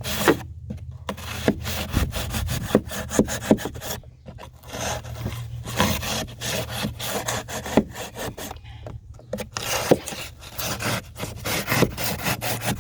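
Drywall knife sawing back and forth through dry pour-in flotation foam, in a rapid run of rasping strokes broken by a few short pauses.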